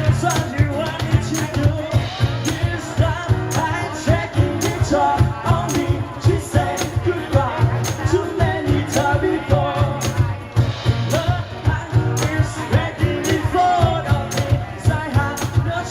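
Live band playing a rock song with a steady drum beat, bass and a melodic lead line on top.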